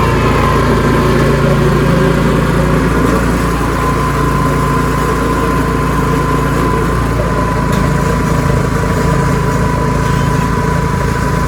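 Ariens 624E two-stage snowblower engine running steadily under load, with a high steady whine over the engine's drone.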